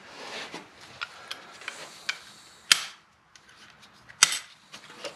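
Scattered clinks and knocks of hand tools on metal, with two sharper knocks about a second and a half apart past the middle.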